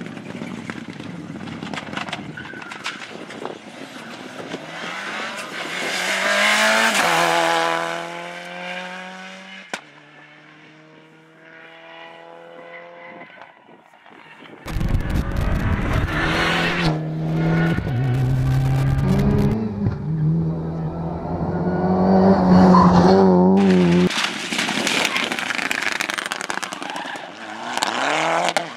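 Rally cars driving hard through a special stage, several in turn. Each engine revs high through the gears, its pitch rising and then dropping as the car comes past, and the sound changes abruptly from one car to the next.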